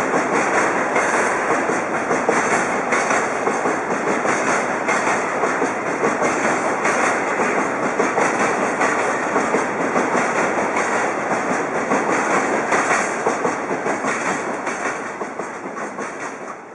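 Freight wagons of a DD51-hauled freight train rolling past, wheels clacking over the rail joints in a steady loud rumble. The noise dies away over the last few seconds as the end of the train passes.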